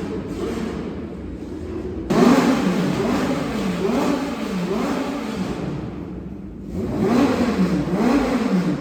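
An engine idling, then revved in repeated throttle blips from about two seconds in. The pitch rises and falls about once a second, eases off briefly near six seconds, then revs up again.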